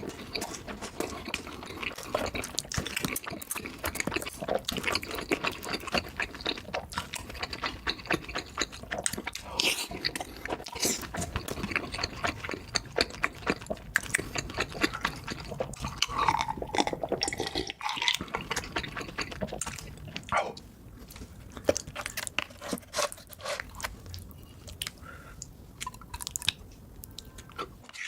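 Close-miked mukbang eating sounds sped up to double speed: a dense run of wet chewing, smacking and slurping on cheesy food, softer in the last third.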